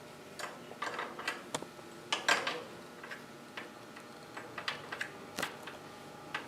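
Small irregular metallic clicks and taps as a new spark plug is handled and tried by hand in the engine's spark-plug hole.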